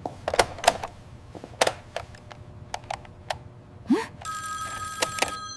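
Scattered light clicks and taps, then about four seconds in a telephone starts ringing with a steady electronic ring.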